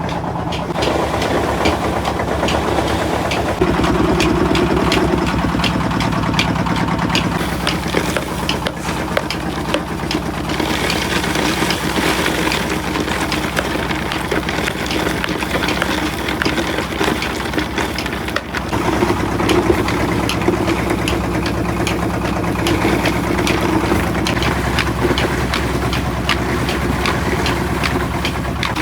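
Engine running steadily under a dense, continuous clatter of knocks and rattles; its note shifts a few times, as if the load on it changes.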